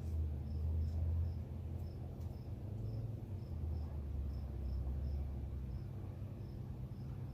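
Crickets chirping in short, high, regular pulses about twice a second, over a low steady rumble.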